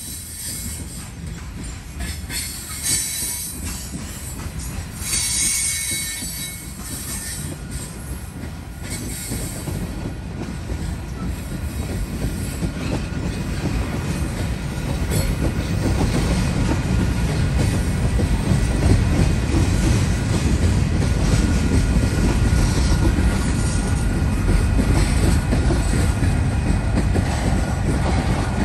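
Freight train of covered hopper and tank cars rolling past, with wheels squealing and screeching in the first several seconds. After that a steady rumble of wheels on rail grows louder as the tank cars go by.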